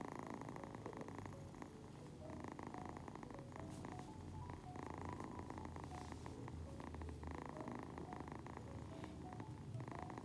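Domestic cat purring continuously close to the microphone, a steady low rumble that swells and eases with each breath.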